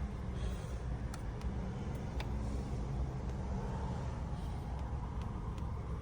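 Car engine idling steadily, heard from inside the cabin, with a few faint clicks.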